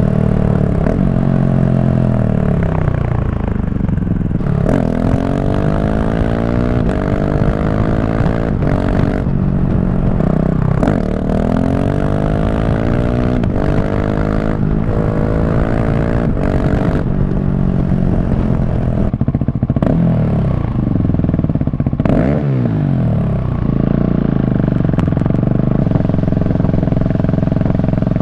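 Loud KTM 690 SMC R supermoto's single-cylinder engine under way, revving up through the gears and falling back several times. The pitch climbs in steps with a short break at each gear change, then drops away when it slows, around the middle and again near the end.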